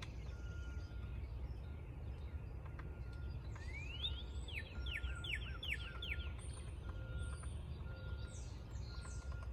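Wild birds calling: a rising note, then a run of falling whistled notes about three a second, with scattered faint high chirps around it, over a steady low outdoor rumble.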